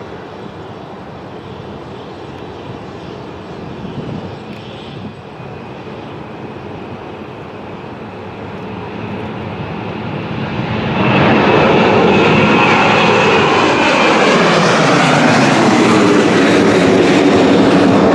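Airplane engine noise rising slowly at first, then jumping much louder about eleven seconds in, with a falling sweep in pitch as the airplane passes close by.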